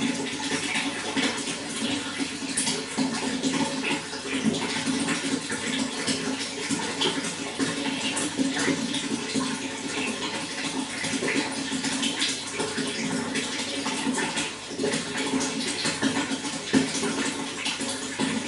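Running water flowing and splashing steadily, with a continuous rush full of small gurgles and drips.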